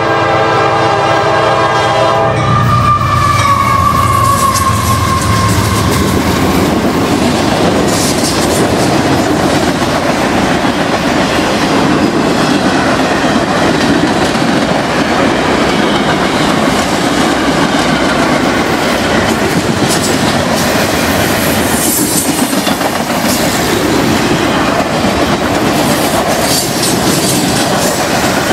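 Diesel freight locomotive's air horn, several tones at once, cutting off about two seconds in; a tone then slides down in pitch as the locomotive passes. After that, the freight cars roll by, their wheels clattering over the rail joints.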